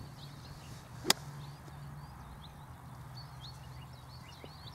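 Small birds chirping over and over in the background, with one sharp click about a second in.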